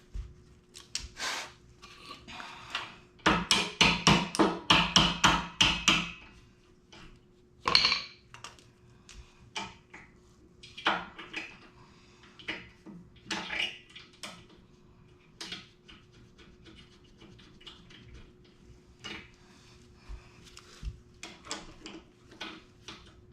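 Metal hand tools clinking and clicking on mini bike brake hardware as a bolt is fastened, with a loud run of rapid clicks, about five a second, from about three to six seconds in, then scattered single clicks and knocks.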